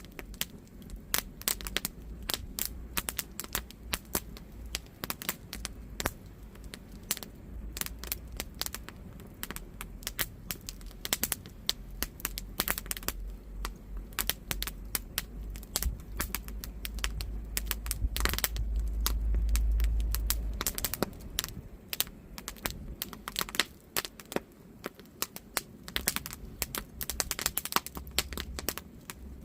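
Wood campfire crackling, with dense irregular snaps and pops from the burning firewood. Under it a low rumble swells to its loudest about two-thirds of the way through, then fades.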